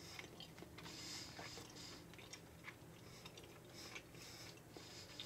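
Faint chewing of a soft sea salt caramel, with a few small mouth clicks.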